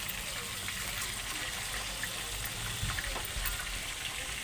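Chicken pieces frying in hot mustard oil in a kadhai: a steady sizzling hiss with a few faint ticks.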